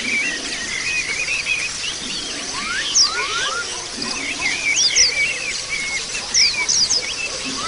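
A flock of white-eyes (pleci) twittering together: many short, overlapping chirps and quick up-and-down whistles, with sharp high notes scattered throughout.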